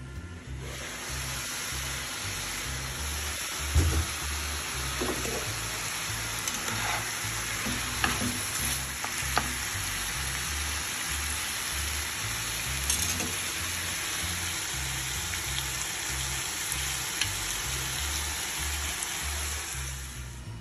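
Minced meat and frozen vegetables sizzling in a frying pan as they are stirred with a slotted spatula, which knocks against the pan a few times. The sizzle starts about half a second in and cuts off just before the end.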